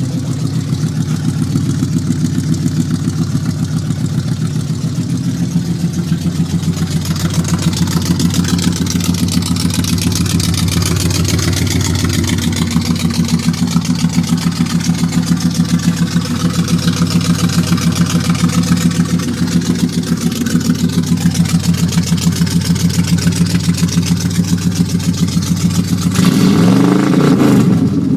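1972 Ford Mustang's 302 V8 with side-exit pipes idling steadily with an even, pulsing exhaust note as it warms up from a cold start. It is revved briefly about two seconds before the end.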